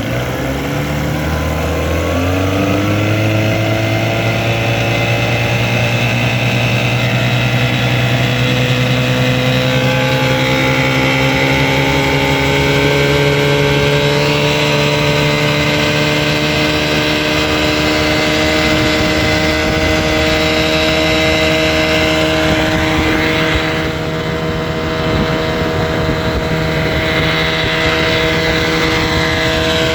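Restored 1958 Mercury Mark 25 two-stroke outboard motor running in gear under way. Its pitch rises over the first few seconds as it is throttled up, then holds steady at speed.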